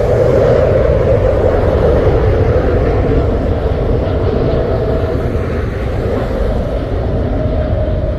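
Jet airliner engines at take-off power: a loud, steady rumbling roar with a droning band, slowly easing off as the aircraft climbs away.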